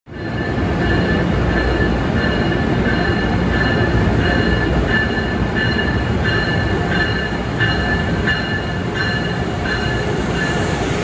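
Amtrak Acela high-speed trainset arriving at a platform, with a steady rumble of wheels and running gear. A ringing tone repeats about twice a second throughout.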